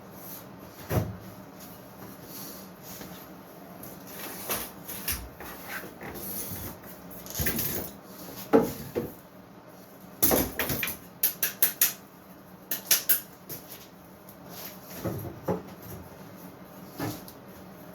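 Workshop handling of wooden parts and tools: scattered knocks and clatters, with a quick run of several sharp clicks about eleven seconds in and another short cluster just after.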